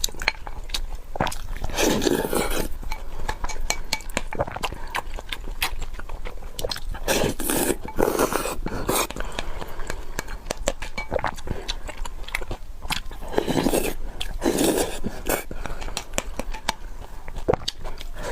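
Close-up eating sounds: spoon and chopsticks clicking against a bowl, with chewing and a few louder mouthfuls of rice.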